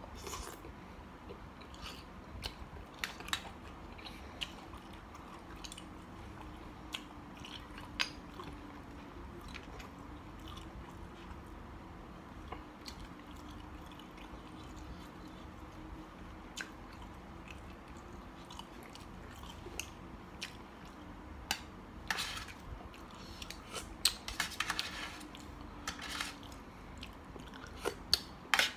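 A person chewing and biting mouthfuls of mixed seafood salad of squid and shrimp, with scattered small crunches and clicks that come thicker near the end.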